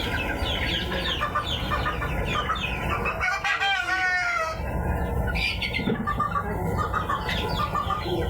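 Chickens calling: many short, high calls throughout, with one longer crow-like call from a rooster about three seconds in.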